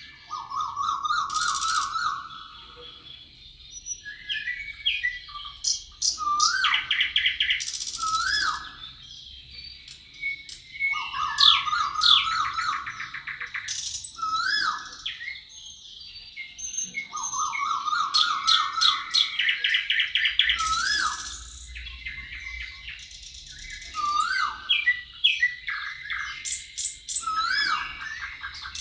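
Several songbirds singing together. A fast, lower-pitched trill of about a second comes back four times, among short rising hooked whistles and high, buzzy chirps that overlap throughout.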